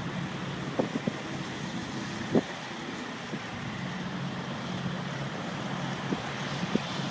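Blizzard wind blowing steadily over a low steady engine hum from idling trucks, with a few brief thumps, the loudest about two seconds in.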